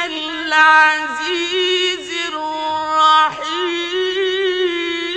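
Solo male voice reciting the Quran in the melodic, drawn-out mujawwad style, with long held notes that bend and waver ornamentally in pitch and only brief breaks for breath.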